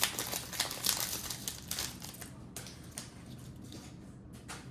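Plastic trading-card booster pack wrapper crinkling as it is handled and opened, dense for about two seconds, then thinning to scattered crackles.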